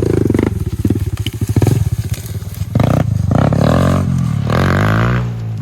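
Pit bike's single-cylinder engine running at low revs in separate pulses, then revved through a few rising blips of throttle from about three seconds in, easing off near the end.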